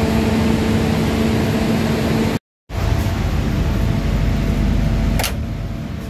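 Steady mechanical hum of a stationary passenger train coach, with a steady pitched drone, breaking off for a moment about two and a half seconds in and going on as a lower, even rumble with a single click near the end.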